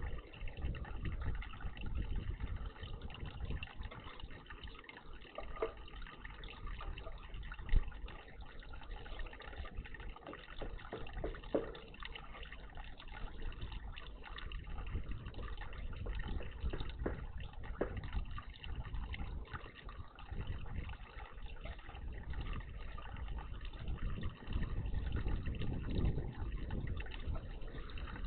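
Water splashing and trickling in a garden bird bath, with a few short sharp taps, over a steady low rumble.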